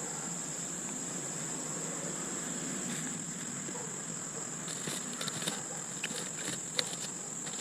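Steady high-pitched insect song, likely crickets, droning throughout. A few light clicks and taps come in the second half.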